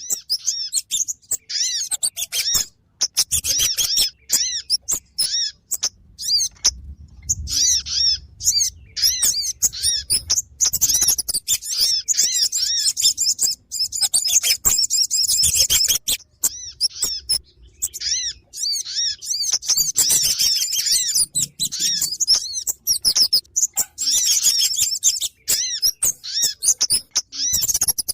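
Small songbirds calling in rapid, busy runs of short high chirps with brief pauses between clusters: a bird-lure recording of excited Kemade and Sogon calls, used to draw these birds in.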